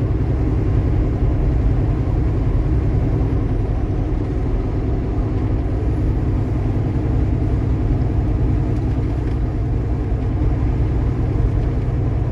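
Kenworth T680 semi truck cruising at highway speed: a steady low drone of engine and road noise heard inside the cab.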